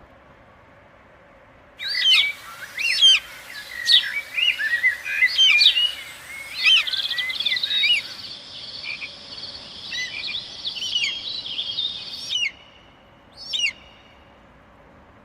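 Forest-ambience birdsong sound effect: several birds calling with whistled, sweeping notes that start suddenly about two seconds in, over a steady high trill through the middle, thinning to a few single calls near the end.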